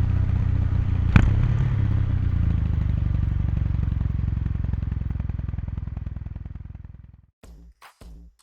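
Kawasaki Meguro K3's air-cooled parallel-twin exhaust running at road speed, with a single sharp click about a second in; the exhaust note then fades steadily away and cuts off near the end, where short rhythmic beats of background music begin.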